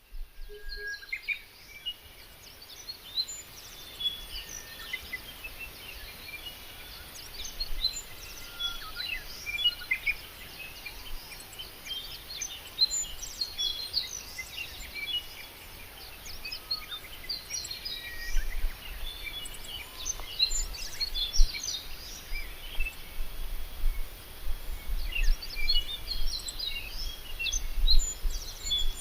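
Birdsong: many small birds chirping and trilling in overlapping short calls, with a low rumble joining in about halfway through.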